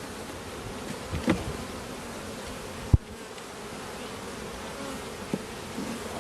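Honeybees buzzing steadily around an open hive, a continuous hum. A short knock comes a little over a second in and a sharper, louder knock about three seconds in.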